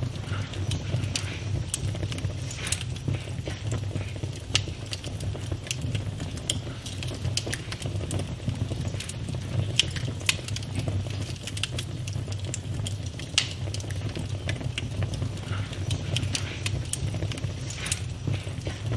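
Campfire burning: a steady low rumble of the flames with frequent sharp, irregular crackles and pops of the burning wood.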